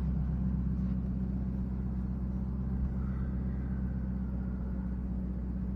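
Ford F-250 pickup's engine running at a steady idle.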